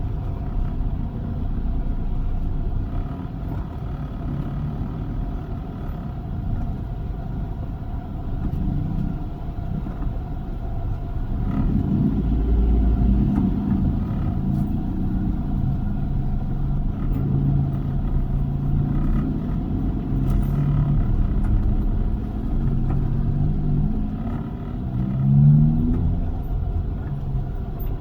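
Toyota Avanza driving, with a steady low rumble of engine and road noise. Near the end the engine note rises briefly as it accelerates.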